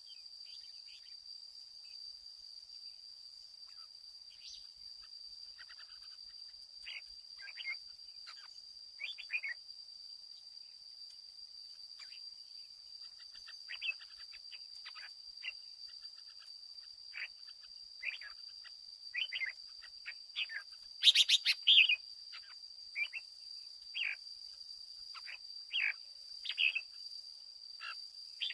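Red-whiskered bulbul singing short, bright chirping phrases at irregular intervals, loudest in a burst about two-thirds of the way in, over a steady high-pitched whine.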